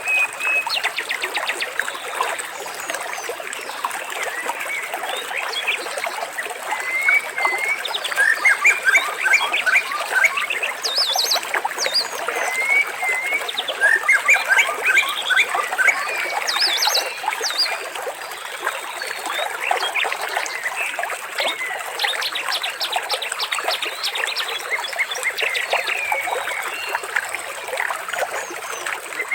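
Water trickling and dribbling, with birds chirping and twittering over it in short clusters of quick notes.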